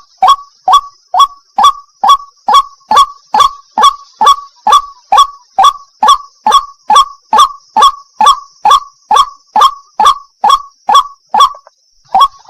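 White-breasted waterhen giving its loud 'wak-wak' call: a fast, even series of short, downward-sliding notes, about two to three a second, that stops about a second before the end.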